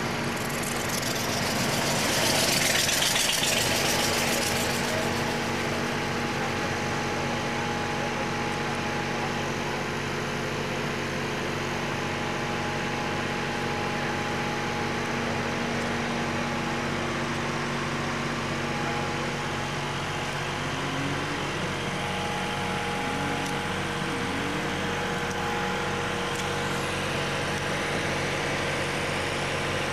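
Dragster engine idling steadily, with a louder rush of noise over it from about two to five seconds in.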